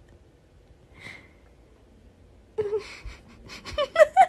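A woman's breathy, gasping laughter with short rising squeals, starting about two and a half seconds in, as a cat swats at her bare foot.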